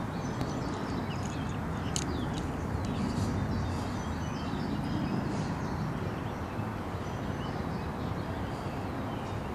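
Birds chirping in short calls over a steady low rumble of outdoor noise.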